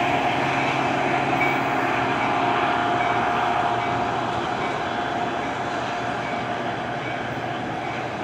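Metra bi-level commuter train rolling away on the rails: steady wheel-on-rail noise with a faint ringing tone and light high ticks about twice a second, slowly fading as the train recedes.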